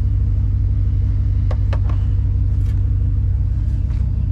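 Vehicle engine idling with a steady, pulsing low rumble, with three light knocks about a second and a half in.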